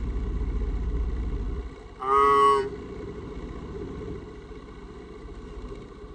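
A low engine rumble that cuts out after a second and a half, followed by one short horn blast, a steady pitched tone lasting under a second.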